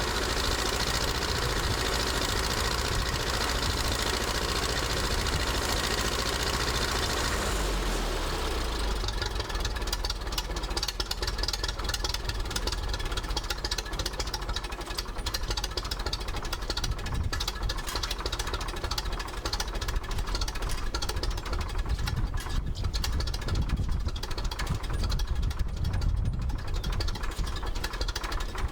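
Ferguson TED 20 tractor's four-cylinder paraffin (TVO) engine idling with no exhaust silencer, running evenly after its distributor cap and points were cleaned up. About eight seconds in the upper hiss drops away and the separate firing beats stand out more clearly.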